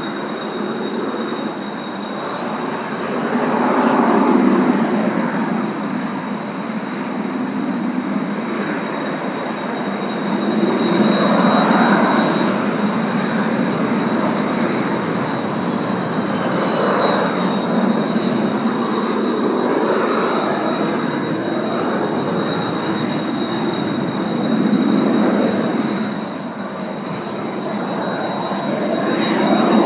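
Jet whine from Kawasaki T-4 twin-turbofan trainers running on the ground: a steady high whine under a loud rush that swells and fades every few seconds. A second, higher whine rises about two seconds in and drops back about halfway through, as the engines are throttled up and back.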